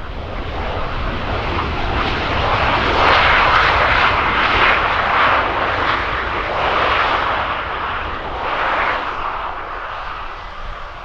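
Bombardier Global 6000 business jet's twin turbofan engines roaring as it passes. The roar swells to its loudest about three to five seconds in, then slowly eases away.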